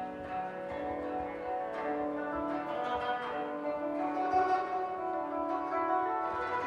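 Koto music: plucked notes ringing on and overlapping one another in a steady flowing passage.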